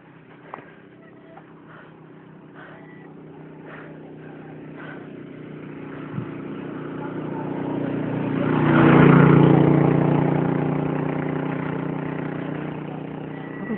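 A motor vehicle's engine approaches and passes close by, growing louder over several seconds, loudest about nine seconds in, then fading away.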